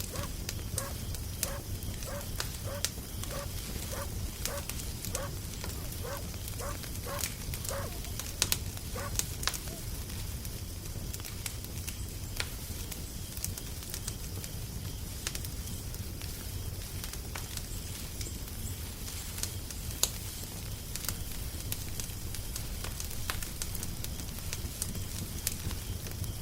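Wood fire crackling, with scattered sharp pops over a steady low rumble. For the first ten seconds or so a series of short pitched notes repeats about twice a second, then stops.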